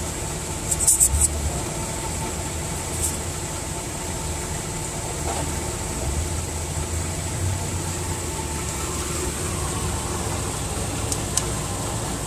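Portable 12-volt tire inflator running steadily under load as it pumps up a tire, with a few sharp clicks about a second in.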